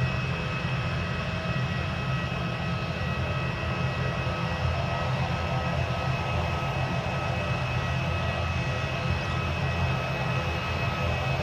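Jet aircraft engines running steadily: a low rumble with a few steady high-pitched whining tones, unchanging in pitch and level.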